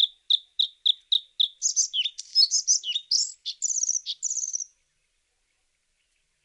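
Bluethroat singing: a run of identical short notes, about four a second, breaks about one and a half seconds in into a fast, varied twittering phrase that stops near the five-second mark.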